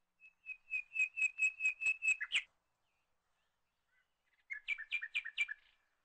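A bird singing: a phrase of quick, evenly repeated high chirps, about five a second for some two seconds, then after a pause a shorter, quieter phrase of similar chirps.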